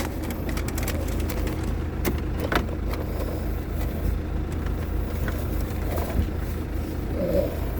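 A vehicle driving along with a steady low engine and road rumble. A few faint clicks sound over it.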